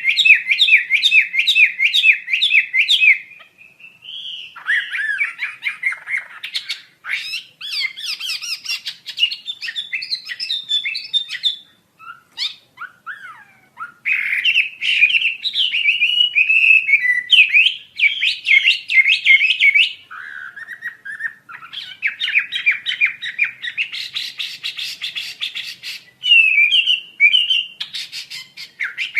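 Wambi asia songbird singing a long, varied song of fast chattering trills and whistled notes, with a few short pauses between bursts.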